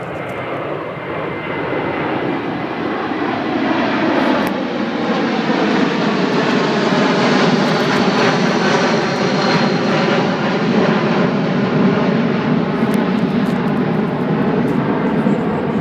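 Boeing 747 at takeoff power: loud, steady jet engine noise that builds over the first several seconds and then holds, with a faint whine above it.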